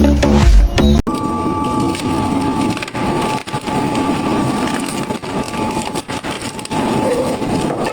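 Music with a heavy beat for about a second, then a sudden cut to an industrial shredder running: dense crunching and cracking over a steady machine whine.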